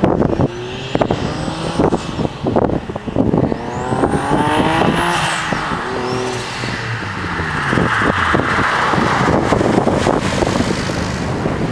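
Twin-turbocharged Nissan 350Z V6 accelerating past: a run of sharp cracks at first, then the revs climb, drop at a gear change and climb again, with a turbo whistle rising alongside, before settling into a steady rush.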